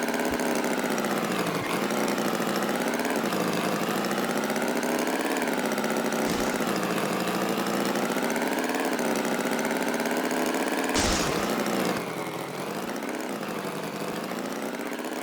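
A small engine running steadily, its pitch wavering slowly up and down, with a short rush of noise about two-thirds of the way through.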